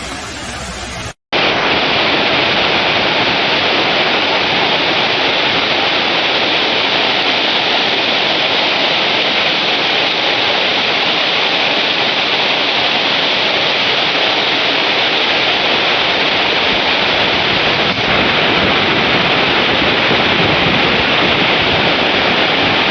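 Loud, steady rush of fast-flowing floodwater, an even unbroken wash of water noise that starts after a brief break about a second in.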